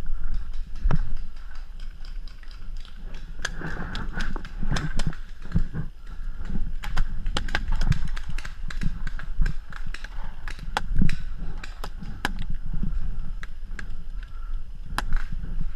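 Paintball markers popping irregularly, many sharp shots at varying loudness, over a low rumble of wind and movement on a head-mounted action camera.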